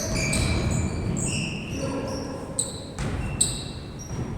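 Sounds of an indoor basketball game: the ball bouncing on the court amid short high squeaks, with a couple of sharp knocks about three seconds in.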